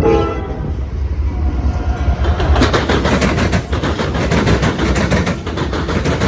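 Train wheels pounding over a set of railroad diamonds in a rapid string of heavy bangs, starting about two and a half seconds in, over the low rumble of the passing train. A horn note dies away right at the start.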